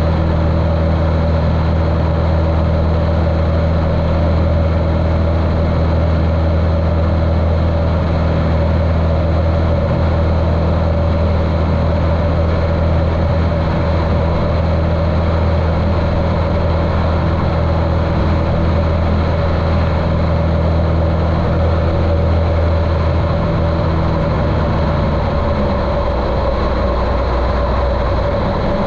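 A Cessna 150L's Continental O-200 air-cooled four-cylinder engine runs steadily in flight, muffled as heard through a GoPro waterproof housing. Its low note drops near the end as the power changes.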